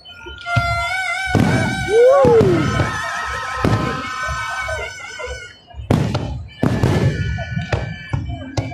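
Fireworks going off in several sharp bangs, among held high whistling tones and one whistle that rises and then falls about two seconds in.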